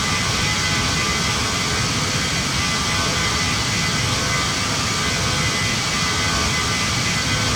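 Steady jet-engine and airflow noise heard from inside the cabin of a Boeing 737 MAX 9, an even rush with a faint fixed whine from its CFM LEAP-1B engines.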